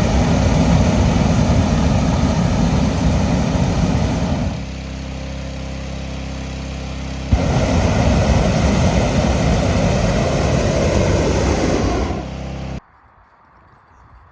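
Hot air balloon propane burner firing in two long blasts, each about five seconds, over the steady drone of a petrol inflator fan's engine. Near the end the sound cuts off suddenly, leaving it quiet.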